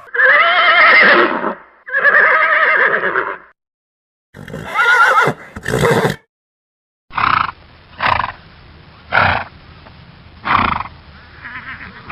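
Horse neighing: two long, wavering whinnies, then a shorter call after a brief gap, then a run of short neighs roughly a second apart.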